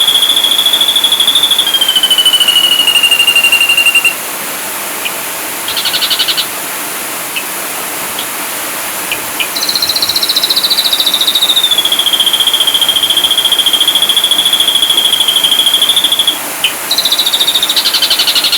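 Ashy drongo song: long, rapid trills held on one high pitch. In a pause about four seconds in come a few short chirps and a brief buzzy burst, then a long trill that slides down in pitch and holds steady, with another rapid burst near the end.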